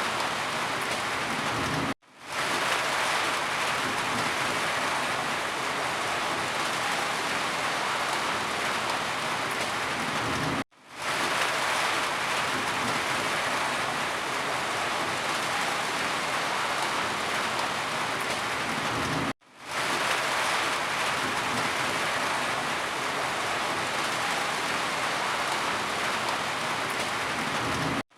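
Steady heavy rain falling, an even dense hiss. It cuts out for an instant and fades back in three times, about every nine seconds.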